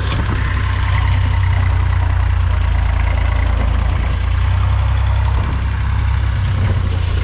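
Massey Ferguson 150 tractor engine running steadily at a low, even pitch.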